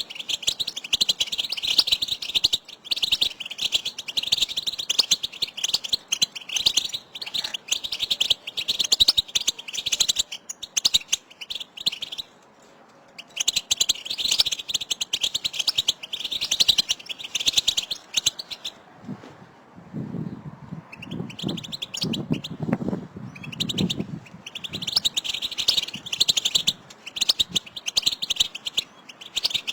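A group of European goldfinches giving rapid, dense twittering 'batbata' calls: the chattering contact calls used to stir caged male goldfinches into song. The chatter breaks off briefly about halfway through. A low sound is heard for a few seconds about two-thirds of the way in.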